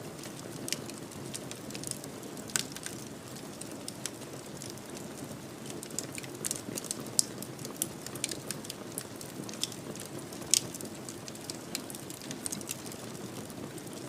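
Fireplace fire crackling: a steady low rush of flame with frequent sharp pops and snaps, two of them louder, about seven and ten and a half seconds in.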